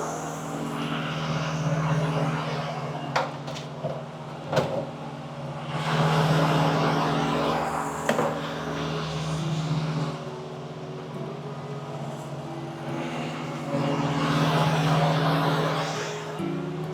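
A steady low engine hum with vehicles passing by in swells three times, and a few sharp clicks.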